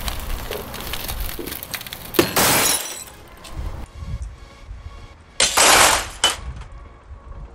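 Airplane window glass cracking and breaking under molten lava: scattered small crackles, then a sharp crack about two seconds in followed by a short rushing hiss, and another loud burst of hiss a few seconds later.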